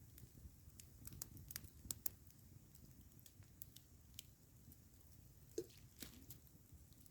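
Campfire crackling faintly: irregular sharp snaps and pops over a low steady rumble, a quick cluster about a second in and a few more near the end.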